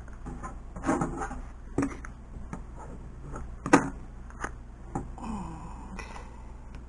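Scattered short rustles, scrapes and clicks of transfer tape being peeled back off wet-applied vinyl sign lettering, with one sharp click a little before the four-second mark.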